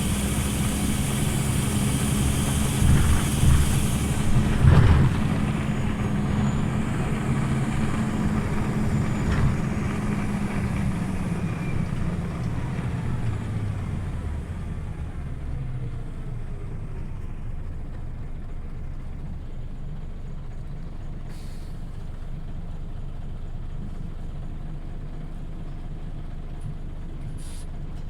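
Scania OmniLink city bus running, with a steady engine note that fades away after about ten seconds, leaving quieter running noise. A hiss of air lasts for the first few seconds, and there is a single knock about five seconds in.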